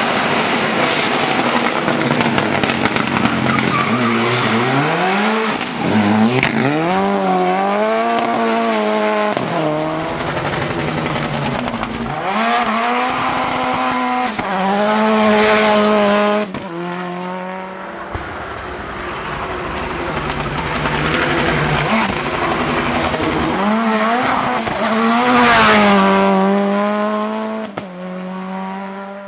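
Turbocharged Toyota Corolla rally car's engine revved hard, its pitch climbing and dropping again and again through gear changes and lifts, with tyre squeal as the car slides. The engine is loudest near the end.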